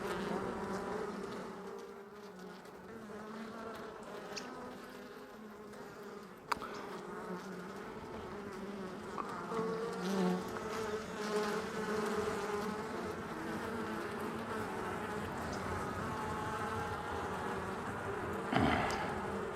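Honey bees buzzing steadily around an open hive while its frames are being inspected. There is a sharp click about six and a half seconds in and a short, louder noise near the end.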